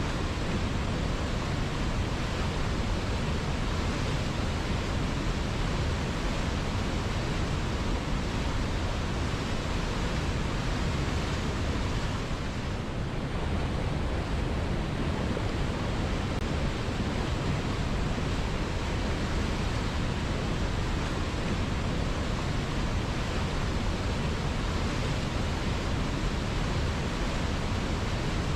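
River water flowing steadily, a continuous even rush with no distinct splashes.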